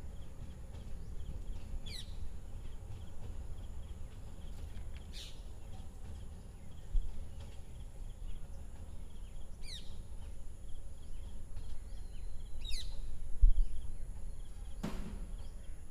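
Outdoor ambience: a bird gives a short, sharply falling call every few seconds, five times, over a steady low background rumble.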